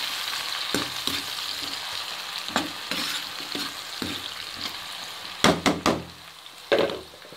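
Potato slices sizzling as they fry in oil in a non-stick pan, stirred with a spoon that scrapes through them every half second or so. Near the end come a few sharp knocks of the spoon against the pan, the loudest sounds here.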